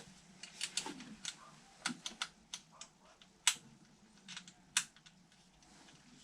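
Irregular light clicks and taps of small hard debris and tools being handled while junk is cleared out of an HVAC unit's condensate drain pan, with two sharper knocks about three and a half and nearly five seconds in.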